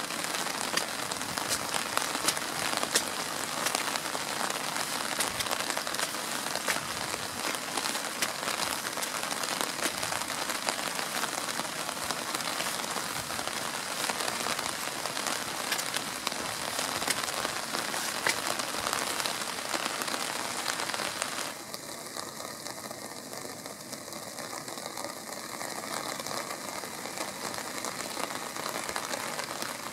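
Heavy rain falling steadily on a waterlogged vegetable field, a dense hiss of countless drops pattering. About two-thirds of the way through the sound drops a little in level and turns duller.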